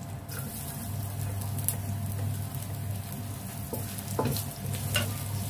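Ginger and garlic sizzling in hot oil in a stainless steel wok, stirred with a wooden spatula that taps against the pan a few times, over a steady low hum.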